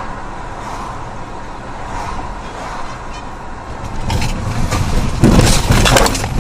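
Car driving, heard from inside the cabin: steady engine and road noise, then a louder rough rushing noise that swells from about four seconds in and is loudest near the end.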